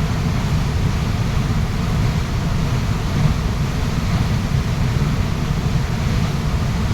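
A waterfall rushing steadily: a loud, deep, even wash of falling water with no breaks.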